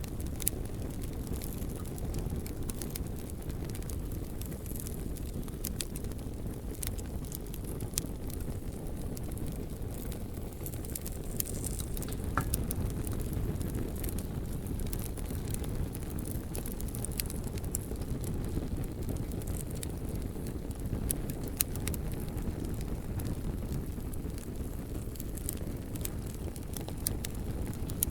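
Campfire burning and crackling, with frequent sharp pops and ticks scattered over a steady low rumble.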